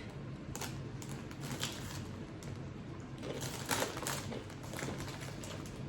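Crunchy baked pretzels being bitten and chewed: irregular crisp cracks over a steady low hum.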